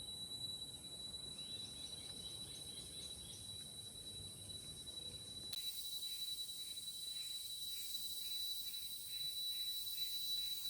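Rainforest insect chorus: a steady high-pitched drone with a hiss of higher insects above it, and a few short chirps. About halfway through the sound changes abruptly to a call pulsing nearly twice a second over the same drone.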